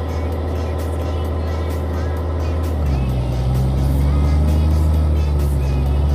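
Heavy vehicle engine running with a steady low hum that gets louder and changes note about three seconds in, under background music.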